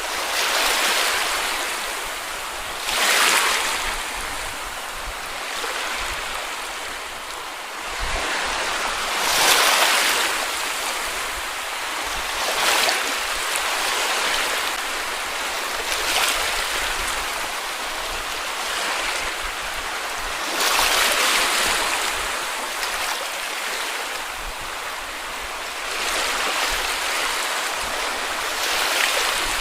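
Small sea waves lapping and breaking on a beach, the wash swelling every few seconds, with a few stronger breaks, the loudest about nine and a half seconds in.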